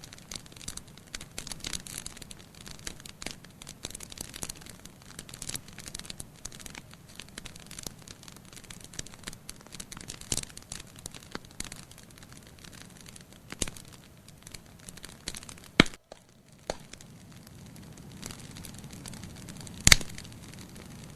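Wood fire burning in a fireplace, crackling with a steady run of small snaps. Two much louder sharp pops come about three-quarters of the way through and near the end.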